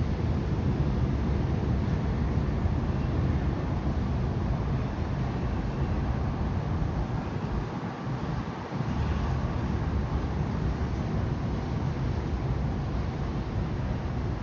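Wind rumbling on the microphone: a steady low buffeting noise that eases briefly about eight seconds in.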